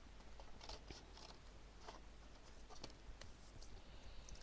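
Near silence with a few faint, scattered clicks and rustles of scrap card being handled and trimmed.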